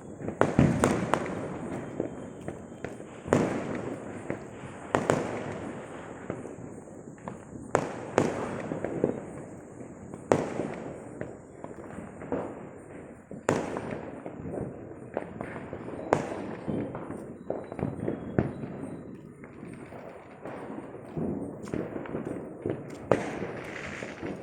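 Firecrackers going off: loud single bangs every one to three seconds, each followed by a rolling echo, with smaller pops and crackles in between.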